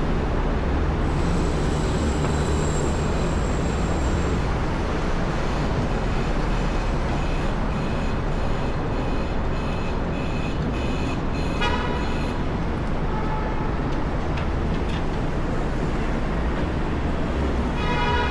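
Steady, loud rumble of downtown street traffic. A thin, high whine runs through the first few seconds, and short pitched chirps come around the middle and again near the end.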